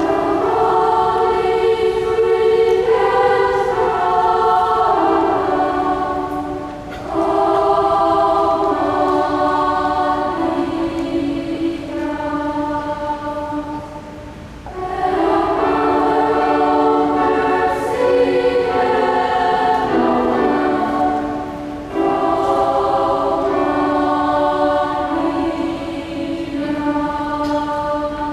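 Mixed choir singing slow, sustained chords in long phrases, with brief breaths between phrases about every seven seconds.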